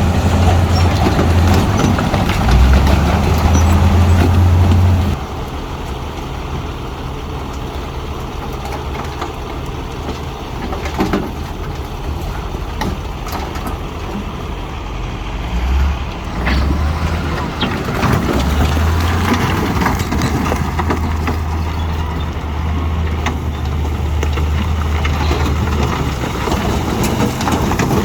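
Heavy diesel earthmoving machinery running, with a deep steady engine hum and scattered clanks and knocks. The engine sound drops off abruptly about five seconds in and comes back strongly about eighteen seconds in.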